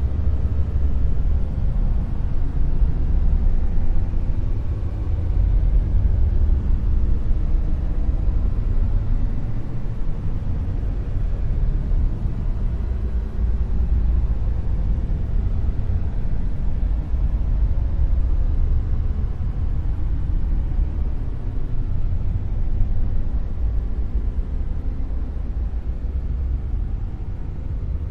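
Dark noise: a steady, deep rumbling hiss, heaviest in the bass and thinning toward the treble, with only slight waver in level and no tones or separate events.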